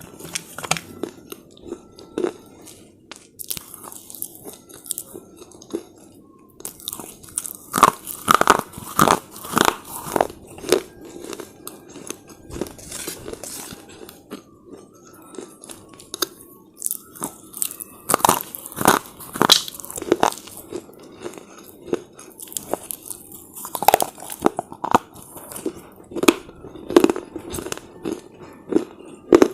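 A person biting and chewing hard, brittle slate chips: sharp crunches coming in clusters, with quieter chewing between them.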